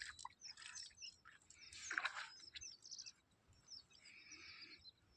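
Birds chirping faintly in many short, high calls, with a brief louder sound about two seconds in.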